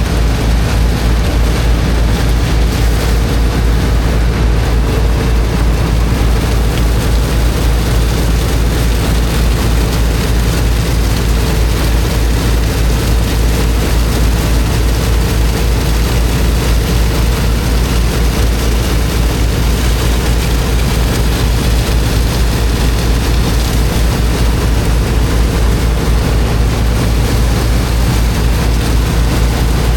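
The engine of a high-pressure water pump running steadily under load, a deep even hum with a fast regular pulse, over the continuous rush of water jets blasting into sand.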